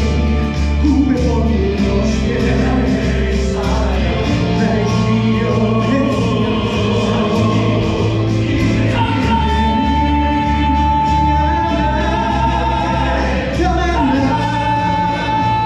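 Musical-theatre ensemble singing together over a backing track with a steady bass beat, a long note held from about nine seconds in.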